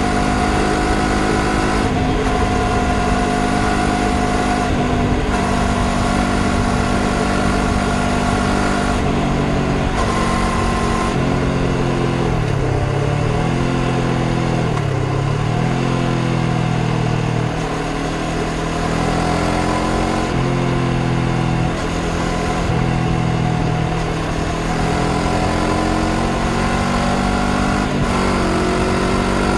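Honda CBR500R parallel-twin engine running under way, its pitch stepping up and down with gear changes and throttle. There are two quick dips and recoveries in the middle and a rising rev near the end, over a steady rush of wind.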